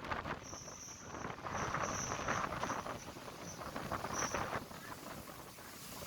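Passenger train running, with a steady rattle and rail noise and a high, thin tone that comes and goes in short stretches several times.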